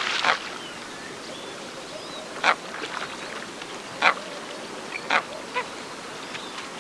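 A coot giving short, sharp single calls, several spaced irregularly about a second or more apart.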